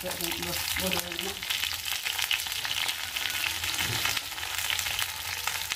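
Hot oil sizzling and crackling steadily in a wok as chillies and vegetables fry for sambal.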